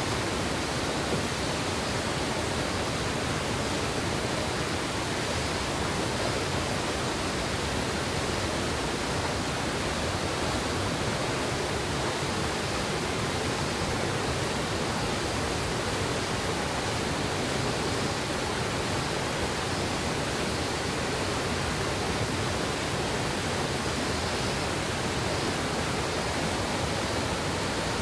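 Clear mountain river water rushing steadily over rocks in a gorge, a dense unbroken rush with no change in level.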